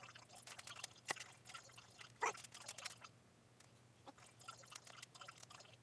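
Light handling noises from working on an e-bike's parts: scattered small clicks and taps, with two sharper knocks about one and two seconds in.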